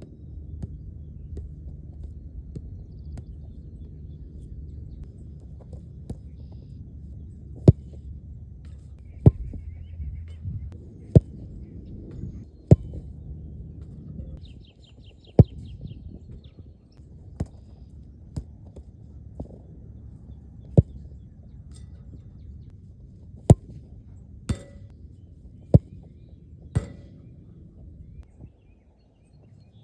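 A soccer ball being kicked: a sharp thump every second or two, about a dozen in all, over a low steady rumble. A short, quick bird trill comes near the middle.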